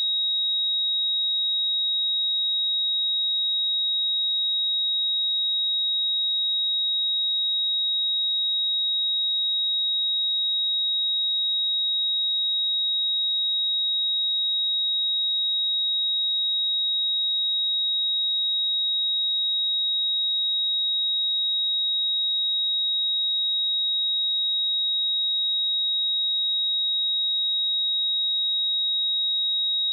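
A pure 3793 Hz sine-wave test tone, a single steady high-pitched note held at constant level, used to test speakers and headphones.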